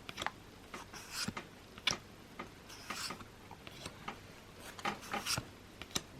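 Pokémon trading cards being handled: a series of short, separate swishes and taps as cards slide over one another while being flipped through one at a time.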